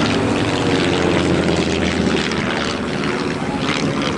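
Douglas DC-3 flying over, the steady drone of its twin radial piston engines and propellers easing slightly toward the end.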